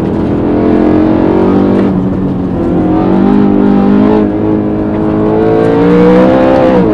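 The 4.0-litre V8 of a BMW E92 M3, heard from inside the cabin, pulling under throttle on the road. Its pitch climbs steadily over the last few seconds, then drops quickly near the end.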